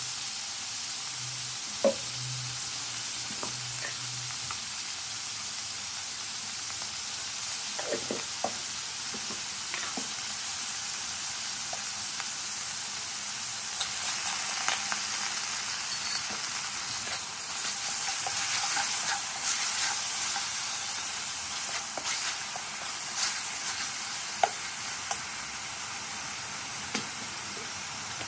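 Beef pieces sizzling in a hot wok while a spatula stirs and turns them, with occasional sharp clicks and scrapes of the spatula against the pan. The sizzle swells briefly about two-thirds of the way through.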